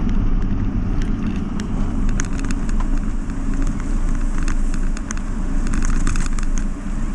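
Car driving slowly through standing floodwater on a road: a steady low engine and tyre rumble, with many short, sharp splashes and crackles from water thrown up by the wheels.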